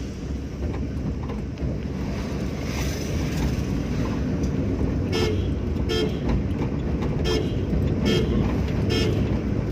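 Hyundai Santro driving, with steady engine and road rumble. From about halfway in, a short pitched horn beep repeats roughly every 0.8 seconds.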